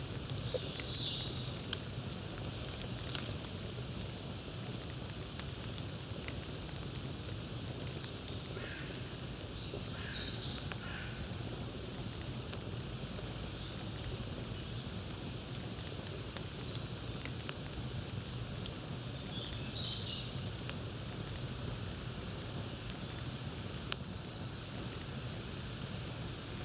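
Campfire crackling steadily with many small snaps and one sharp, loud pop near the end. A few brief bird calls come in near the start, in the middle and later on.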